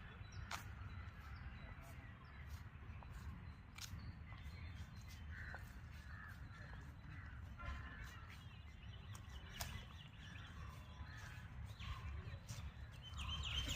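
Faint bird calls, scattered and short, over a steady low rumble, with a few sharp clicks.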